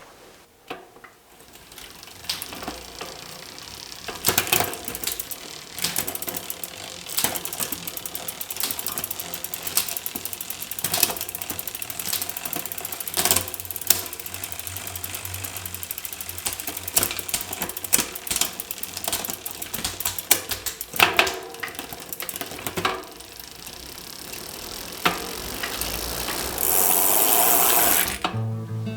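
Bicycle parts being worked on: rapid, uneven mechanical clicking and ratcheting, with a short loud hiss near the end.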